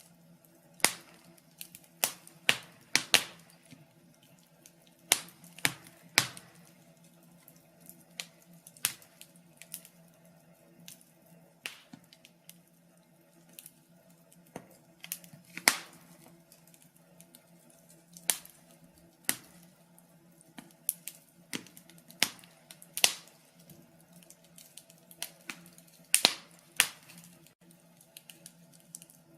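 Wood fire crackling in a fireplace: sharp pops and snaps at uneven intervals, some louder than others, over a faint steady low hum.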